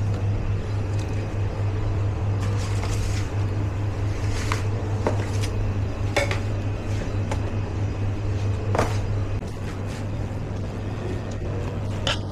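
Kitchen work noise: a handful of sharp clinks and knocks of utensils and dishes at irregular moments, over a steady low machine hum.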